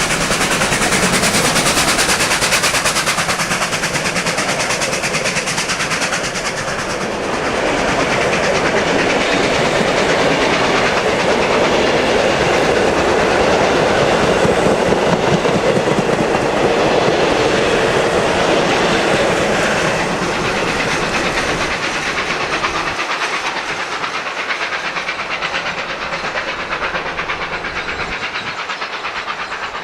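Steam train running along the track, its wheels clacking over rail joints; it grows fainter over the last several seconds.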